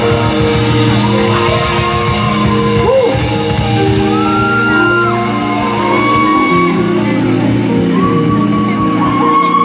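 Live band music played loud in a large hall: held chords and gliding lead notes, with audience members shouting over it.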